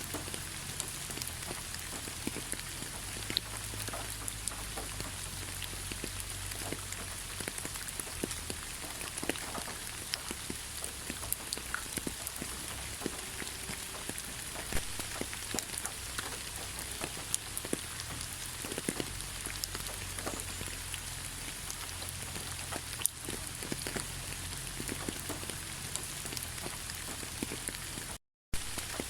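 Steady rain with many scattered drops ticking on a surface. The sound cuts out completely for a moment near the end.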